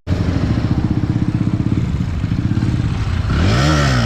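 Single-cylinder motorcycle with a loud aftermarket exhaust, idling with a fast, even pulse, then revved up once and let fall back near the end.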